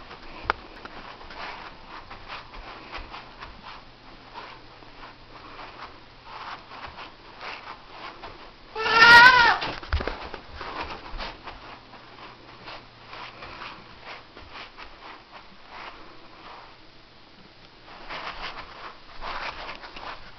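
A cat meows once, loudly, about nine seconds in, with a call that rises and then falls. Around it is a run of light taps and scuffs.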